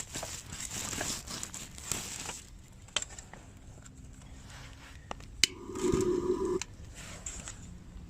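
Crinkling and rustling, as of things being handled, with many small clicks. This gives way to a few scattered clicks and a short humming tone about six seconds in.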